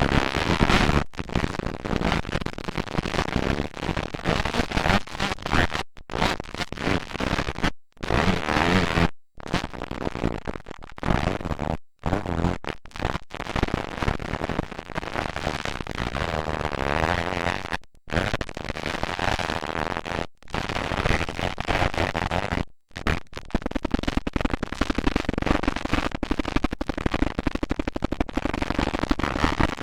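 Motocross dirt bike engines running hard, a dense, harsh noise with wavering engine pitch. The sound cuts out suddenly for a moment several times.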